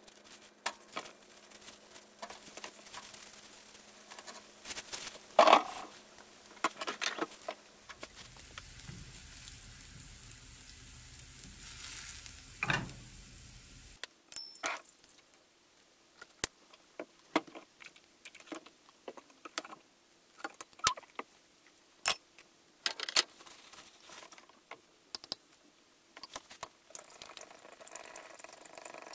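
Nori-wrapped taro patties frying with a light sizzle in a nonstick frying pan, with a few knocks in the first half as they are handled and set down. In the second half, many short sharp clicks of chopsticks against a small glass bowl as a sauce is stirred.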